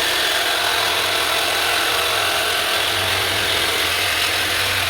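Electric power tool running steadily on wood for several seconds, with a low motor hum under a loud, even rasp.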